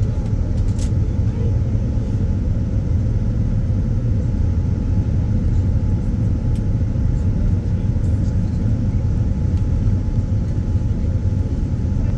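Steady cabin noise inside a Boeing 787-9 Dreamliner in flight: a constant low rumble of engines and rushing air, with a faint steady tone above it.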